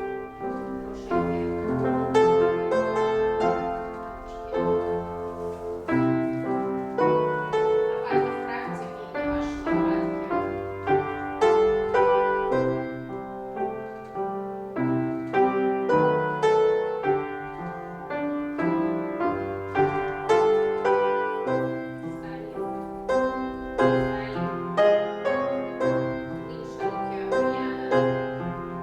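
Piano playing steady, rhythmic classical-style ballet class accompaniment, with a continuous run of separately struck notes and chords.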